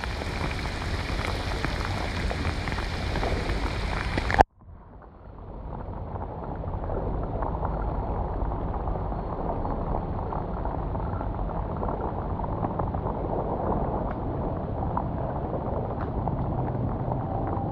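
Heavy rain falling on the water and on the camera, a steady patter of drops. About four seconds in there is a sharp click and a brief dropout, after which the rain sounds duller, with the high end gone.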